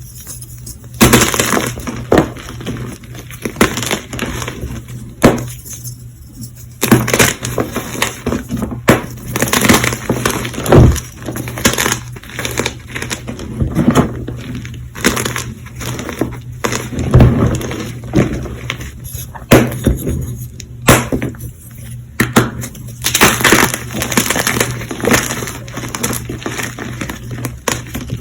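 Fresh, semi-squeaky Colift gym chalk blocks being crushed, in an irregular run of crunches and cracks.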